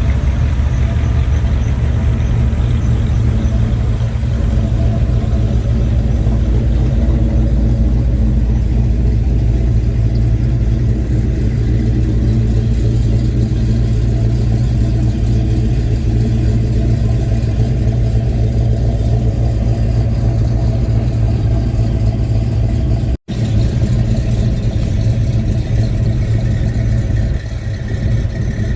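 A car engine running steadily at low speed, a continuous low sound with evenly spaced tones. It drops out for an instant about three-quarters of the way through.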